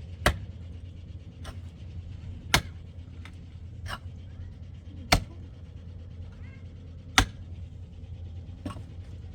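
A series of sharp knocks, like something being struck. Four loud ones come roughly every two to two and a half seconds, with fainter ones between, over a steady low hum.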